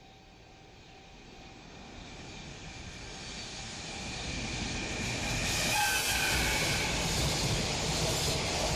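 Electric-hauled freight train approaching on mainline track, growing steadily louder for about six seconds until it reaches the spot and runs past loudly.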